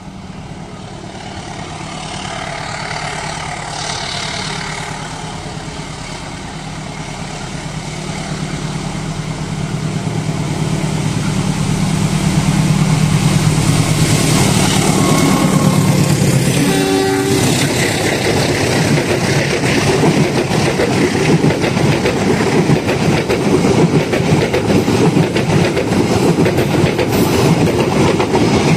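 Diesel-electric locomotive approaching, its engine drone growing louder, then passing about 17 seconds in. After it the carriages roll by with a steady clatter of wheels over the rail joints.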